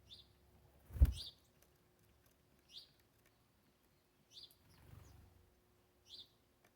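A bird chirping, five short single chirps one to two seconds apart. A loud knock about a second in, and a softer rustle near the end.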